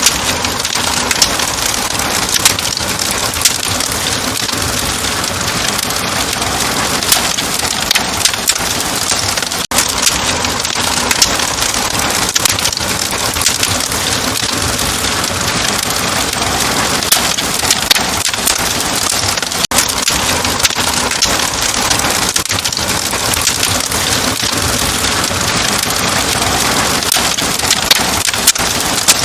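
Wood fire crackling in a fireplace: a steady hiss dotted with frequent sharp pops and snaps.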